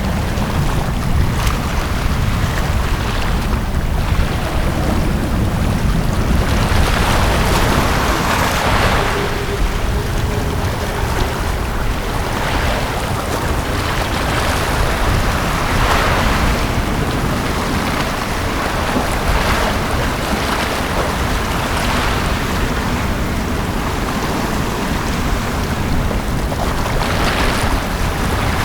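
Sea waves washing onto a beach: a steady rush that swells as each wave breaks, every few seconds.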